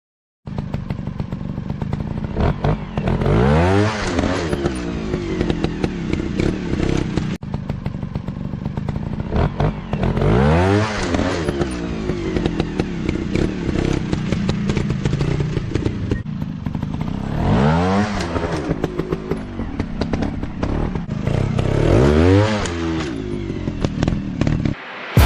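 Dirt bike engines running with a constant rattle and knocks, revving up and dropping back four times.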